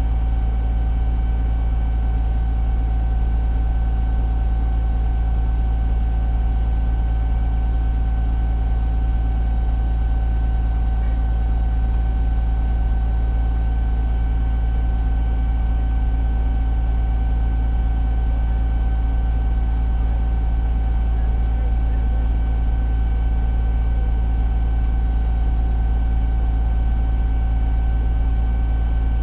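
Fire engine's diesel engine running steadily with a constant low rumble and a steady high whine over it, heard from the dashcam in the cab.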